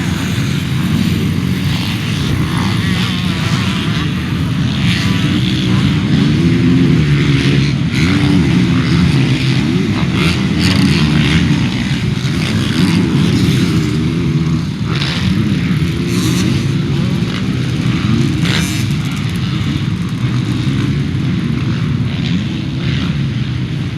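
Motocross dirt bike engines running, their pitch rising and falling as the throttle opens and closes.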